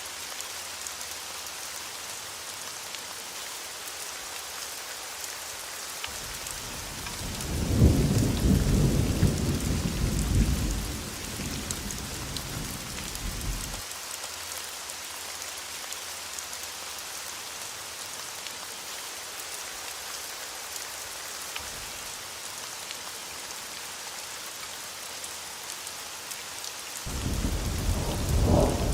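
Thunderstorm: steady heavy rain hissing throughout, with a long roll of thunder that swells about six seconds in and dies away by about fourteen seconds. A second thunder rumble builds near the end.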